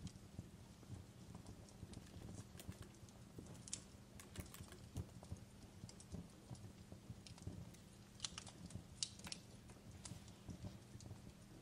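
Wood fire crackling in a fireplace: faint, irregular pops and snaps over a low steady rumble, with a cluster of sharper snaps about eight to nine seconds in.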